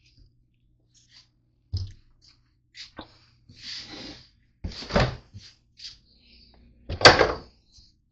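A series of separate knocks and thuds from things being handled and set down, the loudest about seven seconds in, with a brief rustle in between.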